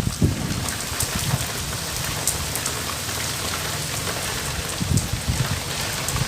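Steady rain falling, an even hiss with scattered sharp ticks of single drops and a few low thumps near the start and about five seconds in.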